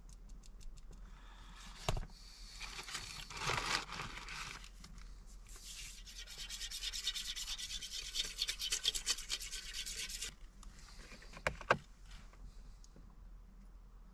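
Rasping, scraping sounds of hand food preparation: a utensil rubbing, then a fast run of short strokes through the middle, with sharp knocks about two seconds in and near the end.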